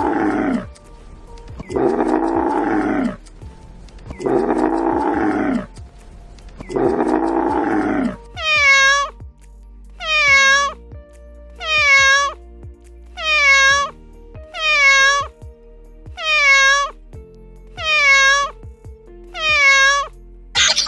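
Animal calls, repeated at even spacing: four long, low calls in the first eight seconds, then seven shorter, higher-pitched calls about a second and a half apart, each dropping slightly in pitch, over soft background music.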